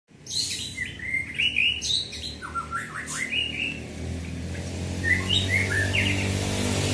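Murai songbird singing in quick runs of chirped and whistled notes, with a pause and a shorter burst of song after about five seconds. A low engine hum comes up underneath from about halfway and grows louder.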